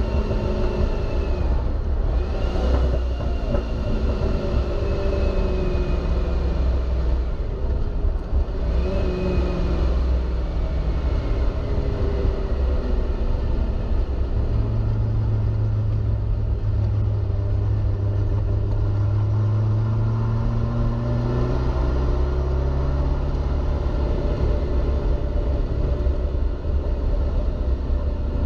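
Inside the cabin of a ProCharger-supercharged C6 Corvette Grand Sport as its V8 runs under way, over a constant low rumble of road and wind. The engine note sinks steadily and jumps back up twice, about two and a half and nine seconds in, then settles to a steadier low drone.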